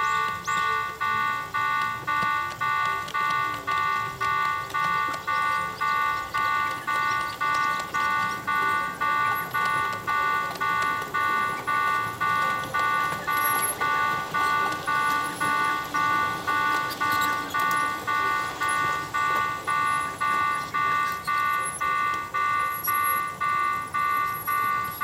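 Japanese railway level-crossing warning bell ringing steadily, a clanging electronic tone repeating about twice a second, which stops suddenly at the very end.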